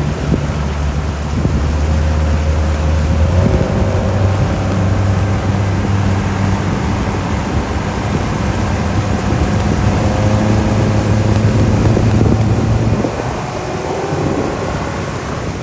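Boat motor running under way, with wind rushing over the microphone. The engine note steps up about three and a half seconds in and eases off near the end.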